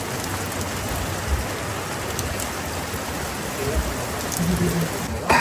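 Heavy rain pouring down steadily in a downpour, with a brief louder sound just before the end.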